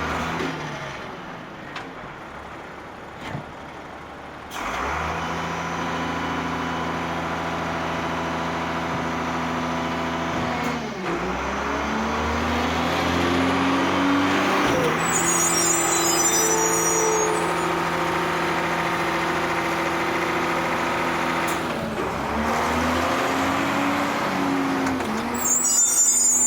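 A motor vehicle engine running steadily, its pitch dipping and climbing back several times. There are brief high squeals near the middle and end.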